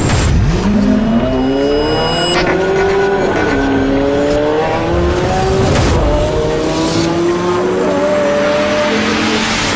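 Sports car engine accelerating hard through the gears: the pitch climbs, drops back at each upshift and climbs again, several times over.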